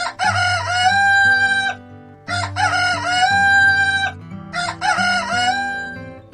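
Rooster crowing three times, each crow lasting about one and a half to two seconds, over acoustic guitar background music.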